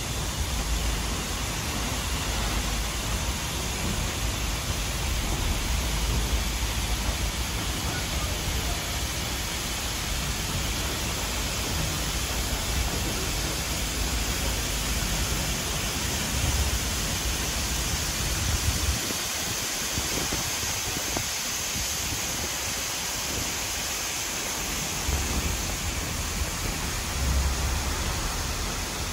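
Steady rushing noise of a moving train carriage, with a low rumble underneath that drops away for a few seconds past the middle.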